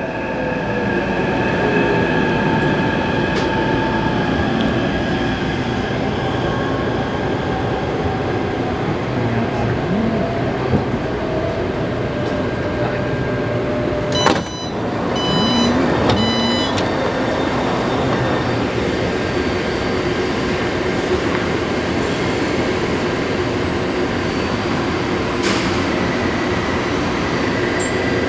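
Taipei Metro C381 train running between stations: a steady rumble of wheels on rail with faint motor tones. About halfway there is a brief rush of noise with a short series of beeping high tones.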